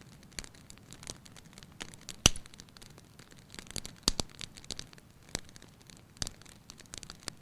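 Wood fire crackling in a fireplace: irregular sharp pops and snaps over a faint hiss, with one loud snap about two seconds in.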